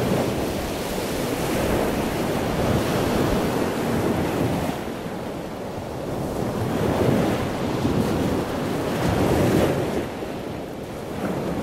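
Water splashing and surging as a killer whale thrashes at the surface of a pool, with wind noise on the microphone; the splashing swells and fades a few times.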